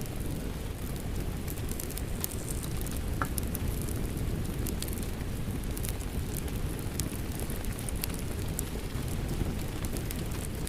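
Fireplace fire crackling with scattered sharp pops over a steady low rumble of rain.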